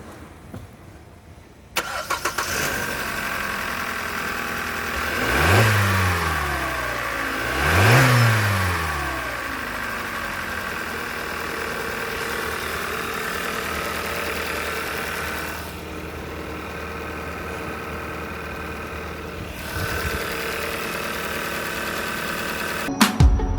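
2016 Hyundai i40 engine starting about two seconds in and settling to idle. It is revved briefly twice, pitch rising and falling each time, then idles steadily.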